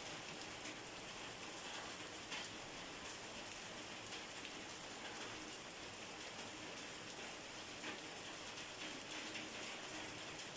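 Steady rain falling on a surface, with a few single drops ticking here and there.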